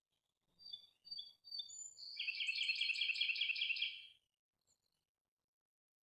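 A songbird singing one phrase: a few short separate notes, then a rapid, even trill of about two seconds that stops sharply a little after four seconds in.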